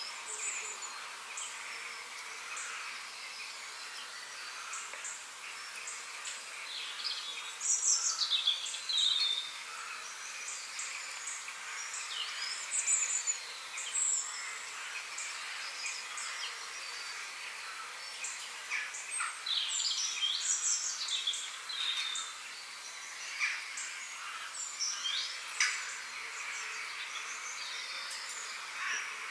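Birdsong: several birds chirping and trilling in short, scattered phrases over a steady faint background hiss.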